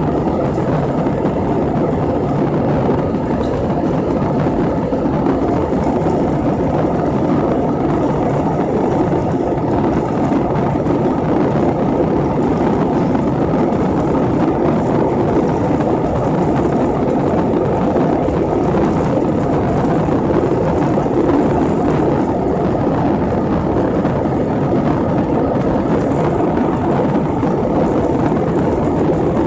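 Steady, unbroken roar of engine and rushing air inside an airliner cabin in flight, strongest in the low and middle range.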